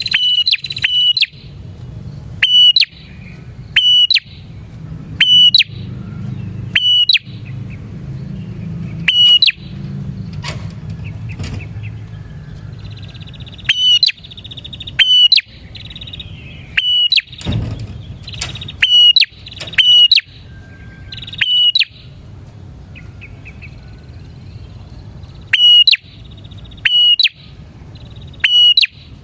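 Prenjak, a prinia, calling repeatedly: loud, short, sharp high notes coming about once every second or so, in places with fast chattering between them, over a steady low hum.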